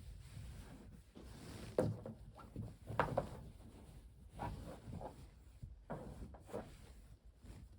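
An irregular string of light knocks and rubbing sounds from objects being handled, the sharpest taps about two and three seconds in.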